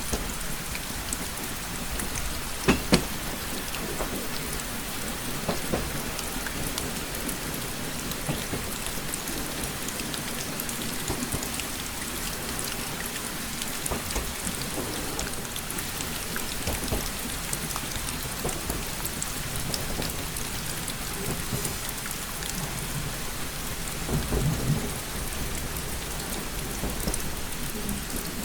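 Steady rain pattering on a window, with many sharp drop taps. Two louder taps come about three seconds in, and a brief low rumble comes near the end.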